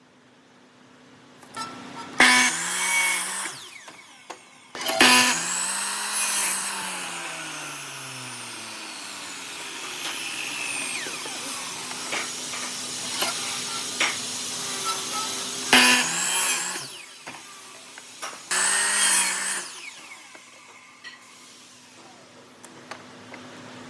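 An electric power tool working wood, run in several bursts: its motor spins up and winds down each time, with one long run of about ten seconds in the middle.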